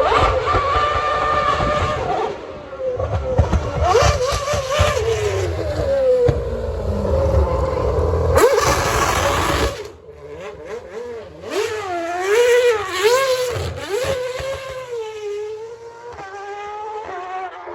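Formula One car engine revving close by, its high note rising and falling again and again as the throttle is blipped. A heavy low rumble lies under it for the first half and drops away about ten seconds in.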